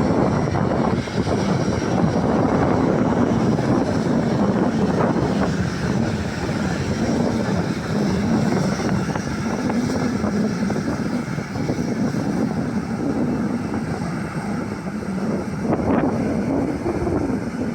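Airliner's engines passing close by on the runway approach or departure: a loud continuous rush with a wavering low hum, easing off near the end.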